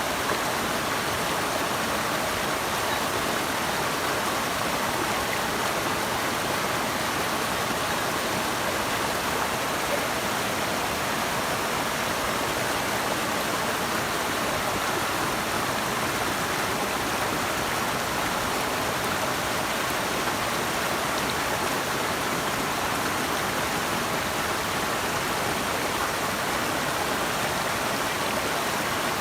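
Running water rushing steadily, an even, unbroken hiss with nothing else standing out.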